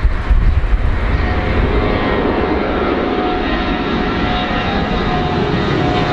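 Airplane engines running: a steady roar with faint steady whining tones, with gusty rumble from wind on the microphone in the first second.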